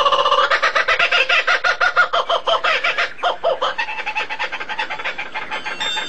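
A fast run of short, repeated bird-like calls, thinning out and fading after about four seconds.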